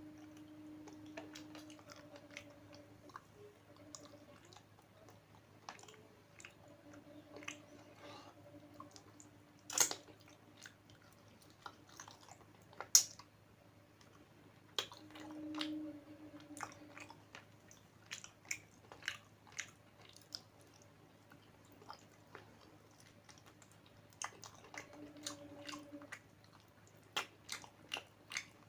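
A person chewing and biting food close to the microphone, with frequent small wet clicks and crunches. Two sharper, louder clicks come about ten and thirteen seconds in.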